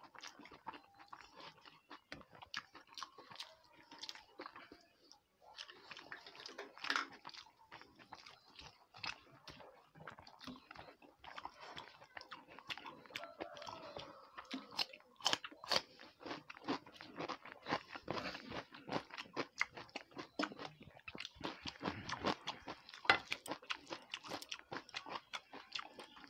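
A person chewing and biting food close to a clip-on microphone: many small clicks and crunches, a mouthful of rice, curry and fried vegetables eaten by hand.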